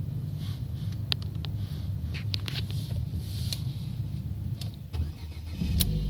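Ford Focus Mk3 engine running with a distinct tapping knock, like a diesel, over a steady low hum, with sharp taps at uneven intervals. The knock is of unknown cause; it appeared after an engine oil change.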